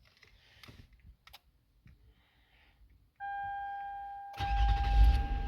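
Key clicking in the ignition of a 2008 Toyota Sienna, then a steady electronic warning tone from the dash about three seconds in. About a second later the van's 3.5-litre V6 cranks and starts, and it keeps running with a low rumble under the tone.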